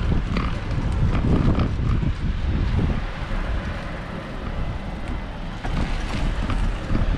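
Wind rumbling on the microphone of a moving bicycle, a steady low noise that eases off a little around the middle.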